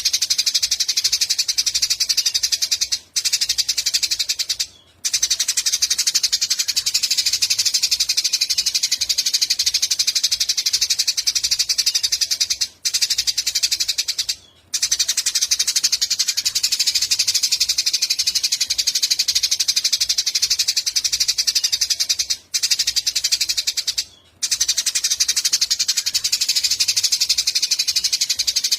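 Small songbird singing a fast, high-pitched chattering trill without let-up, broken only by brief pauses about every ten seconds as the recording repeats.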